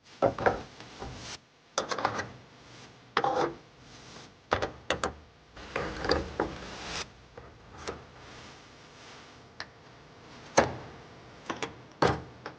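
Seasoning containers and supplies being handled and set in place: scattered light knocks, clicks and rubbing, with a few sharper knocks.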